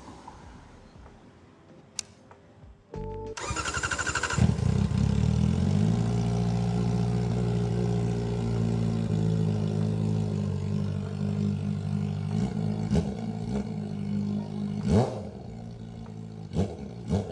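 Kawasaki ZX-4RR's 399 cc inline-four with its stock muffler removed, running without any muffler: a click, then the starter cranks and the engine catches about three seconds in. It flares high, settles over a second or so into a steady idle, and is blipped in a few short revs near the end.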